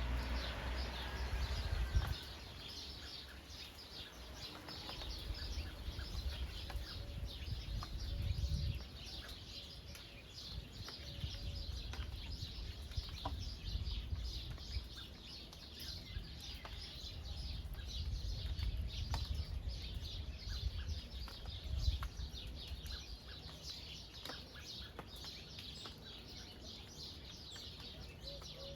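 Steady patter of rain falling on a field, with birds calling, and a low rumble that swells and fades every few seconds.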